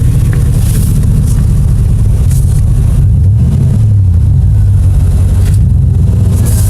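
A vehicle engine running steadily, its low exhaust note loud and even, with a slight change in pitch about three seconds in.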